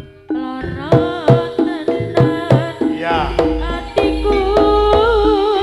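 Jaranan band music: tuned percussion struck in a steady, even beat with hand drums, and a wavering melody line with deep drum strokes entering about three seconds in.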